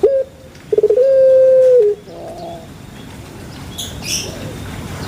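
Puter pelung (Streptopelia risoria, a domestic dove) calling: a short stuttering start runs into one long, steady hooting note of about a second that drops in pitch at its end. A few faint high chirps follow.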